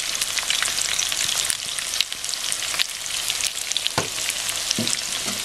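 Salmon steaks and freshly added minced garlic sizzling in olive oil and butter in a frying pan: a steady crackle of small pops. Two light knocks come about four seconds in.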